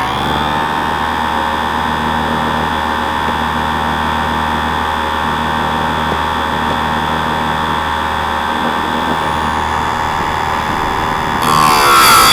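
Harbor Freight electric chainsaw sharpener running steadily, its motor and grinding wheel spinning free between teeth. Near the end the wheel is brought down on a chain tooth and the grinding gets much louder, the motor's pitch dipping under the load.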